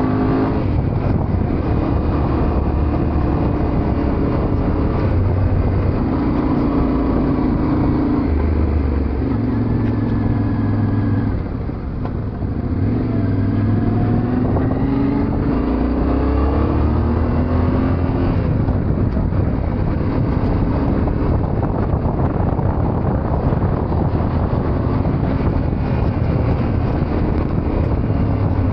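Yamaha Ténéré 700 motorcycle's parallel-twin engine running under way, its pitch rising and falling in steps with throttle and gear changes over a steady rushing noise. The engine eases off briefly about twelve seconds in, then pulls again.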